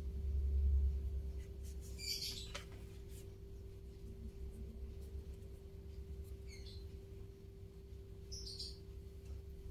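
A bird chirping three times in short, high, sweeping notes, over a steady low hum that swells briefly in the first second.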